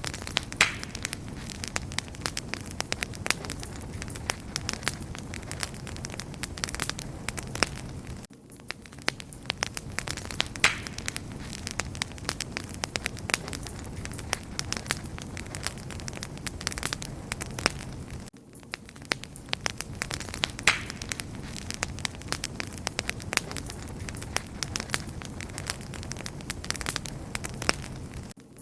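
Wood fire crackling and popping, with dense sharp snaps over a steady low rumble of flames. The same stretch of crackling repeats about every ten seconds, with a brief dip in level at each seam.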